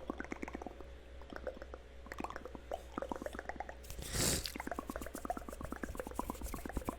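Layered ASMR mouth sounds: rapid wet clicks and smacks of tongue and lips, in quick irregular succession, with one short, louder hissing burst a little past halfway.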